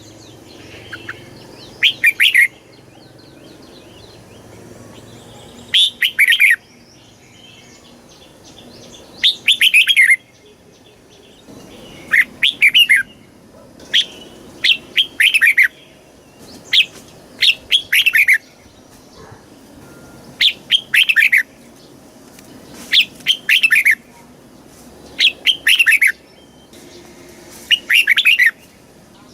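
Red-whiskered bulbul singing, repeating a short phrase of quick, falling whistled notes again and again, with a brief pause between phrases.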